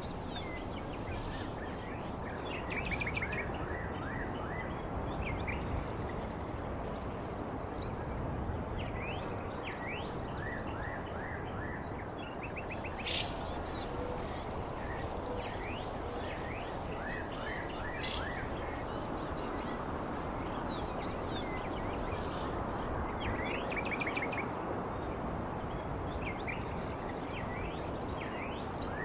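Evening forest ambience: birds chirping repeatedly over a steady high-pitched insect drone, with a constant background hiss beneath.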